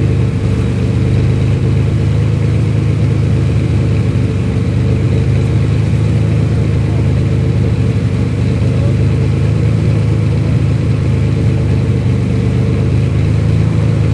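Lamborghini supercar engines idling, a loud, low, steady note with no revving.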